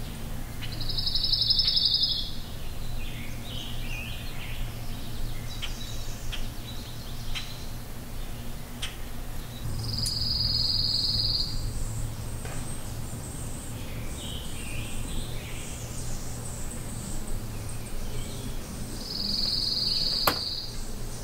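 A songbird's fast, high trill, given three times about nine seconds apart, over a steady low background hum.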